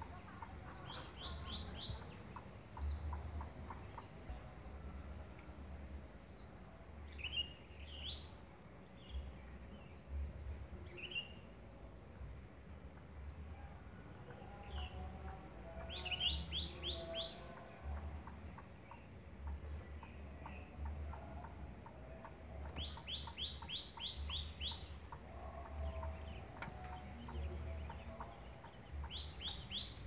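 Bird calls: quick runs of four to six short high notes, repeated every several seconds, with a few single notes in between. A low rumble comes and goes underneath.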